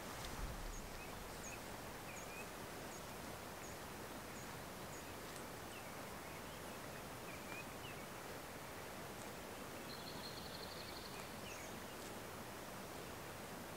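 Meadow ambience: a steady background hiss with small songbirds calling over it, a run of high chirps at about two a second through the first five seconds, and a short rapid trill about ten seconds in.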